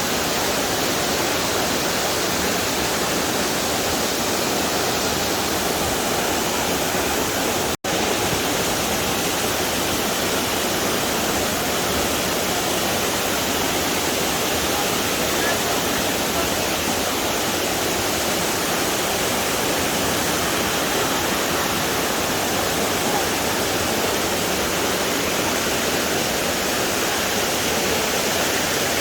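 Waterfall rushing steadily, a dense even roar of falling water. It cuts out for an instant about eight seconds in, then carries on unchanged.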